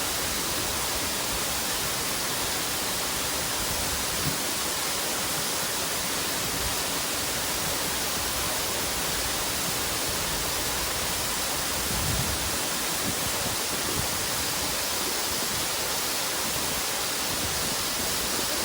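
Waterfall rushing: a steady, even hiss of falling water, with a couple of faint low thumps about four and twelve seconds in.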